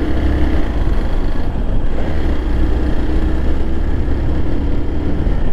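Motorcycle running steadily on the move, a faint even engine hum under heavy wind rumble on the microphone.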